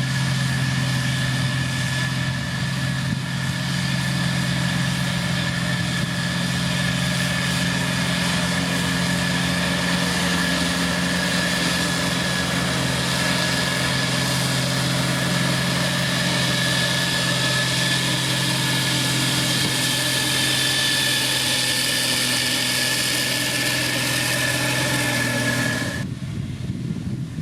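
Diesel engine of a heavy road-building machine running steadily at an even speed, with a constant high whine over the engine note. It cuts off abruptly about a second before the end, giving way to wind noise on the microphone.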